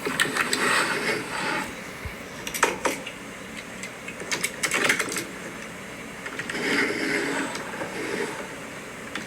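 Small plastic toy trucks being handled: several sharp clicks and stretches of light rattling and scraping of plastic parts.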